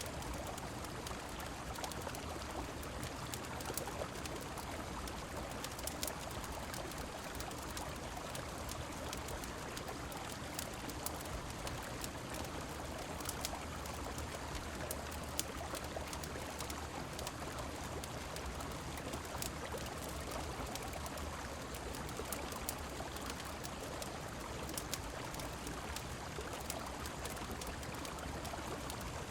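Steady rushing of a river mixed with falling rain, with scattered sharp crackles and pops from a wood fire every second or two.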